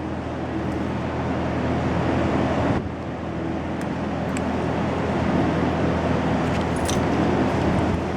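A steady mechanical hum of a running engine or motor, with a brief dip about three seconds in and a few light clicks.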